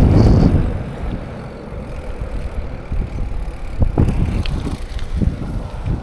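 Mountain bike rolling over rough ground, its tyres rumbling and the frame clattering with several sharp knocks. Wind buffets the microphone loudly for about the first second.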